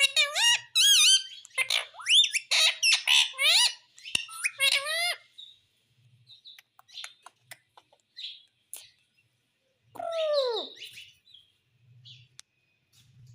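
Pet parrot calling: a quick run of high calls that swoop up and down in pitch for about five seconds, then scattered soft clicks and chirps, and one loud call falling in pitch about ten seconds in.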